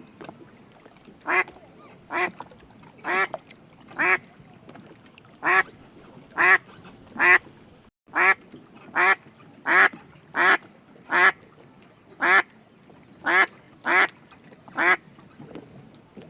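A duck quacking over and over: about sixteen short single quacks, spaced roughly a second apart.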